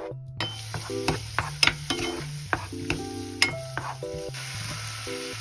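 Diced scallops sizzling in a hot pan from about half a second in, with a spatula stirring them and knocking against the pan again and again. Light background music plays throughout.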